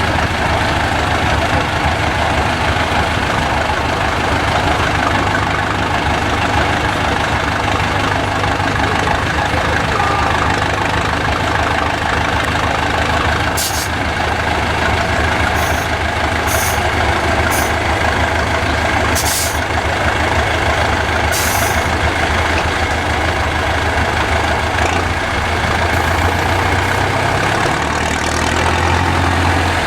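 IFA W50 truck's diesel engine running steadily, picking up in the last couple of seconds. From about halfway through, several short hisses are heard, typical of a truck's air brakes.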